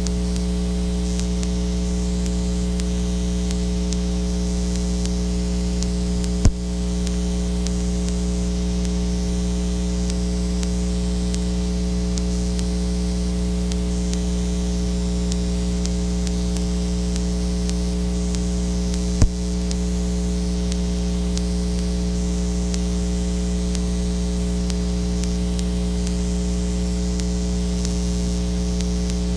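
Steady electrical mains hum with a low buzz and hiss, with no other sound on the track. A sharp click breaks it twice, about six seconds in and again near nineteen seconds.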